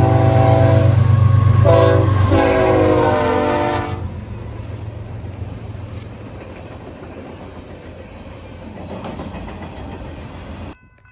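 Diesel locomotive horn sounding a long chord blast and then a second blast whose pitch drops as the locomotive passes, over heavy engine rumble. The horn then stops and railcars roll by with steady wheel noise, which cuts off abruptly near the end.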